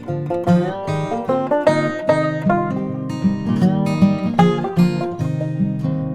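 Background music: an acoustic guitar picking a quick run of notes.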